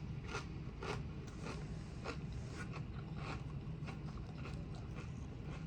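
A person eating close to the microphone: soft, irregular chewing crunches and small mouth and food noises over a low steady hum.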